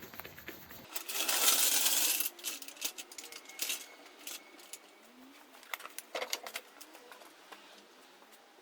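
A short rush of noise, then scattered metallic clinks and taps of tools and gear being handled.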